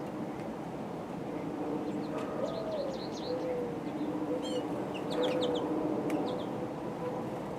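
Small birds chirping: quick high calls clustered from about two seconds to six seconds in, over a steady low hum.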